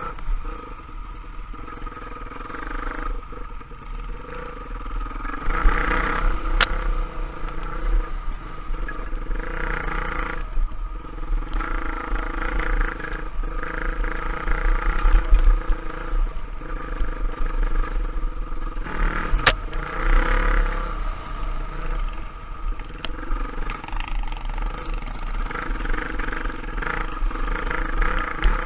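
Trail bike engine running under changing throttle, swelling and easing over and over, with a couple of sharp clicks.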